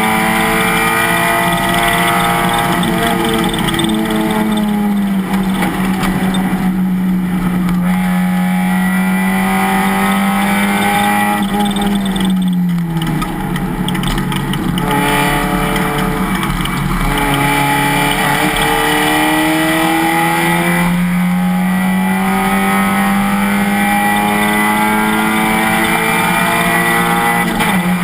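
Race car engine running hard at high revs, heard from on board. About halfway through the revs fall sharply, as under braking, then climb steadily again as the car accelerates.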